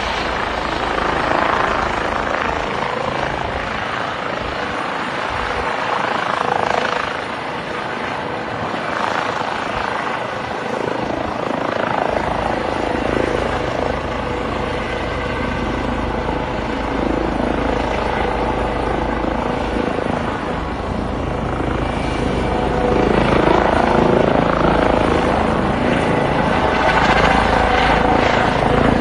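Eurocopter EC135 rescue helicopter's twin turbines and rotors running through a takeoff and climb, a steady rotor thrum that grows louder about three-quarters of the way through.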